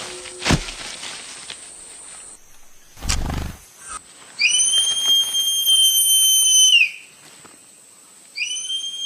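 Manakin wing sound: a sharp snap, then two long, steady whistle-like tones, the first lasting over two seconds, made by the male rubbing his wing feathers together.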